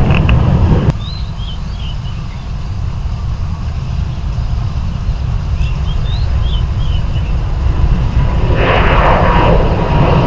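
Jet airliner engines rumbling steadily at a distance, changing abruptly about a second in.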